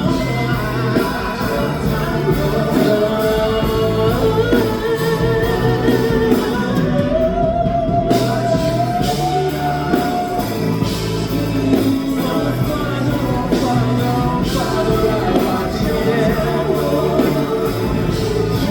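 Live R&B band playing, with a singer's voice carrying long held, sliding notes over a steady beat.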